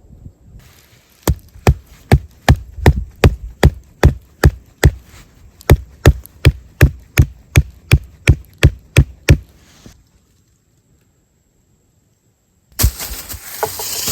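Wood being chopped with a hatchet: about twenty quick, evenly spaced strikes, two or three a second, which then stop. A loud burst of noise follows near the end.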